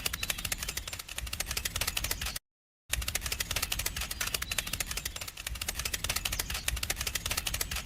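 A small machine clattering with rapid, even ticks, about a dozen a second. The sound cuts out completely for about half a second a little over two seconds in, then carries on.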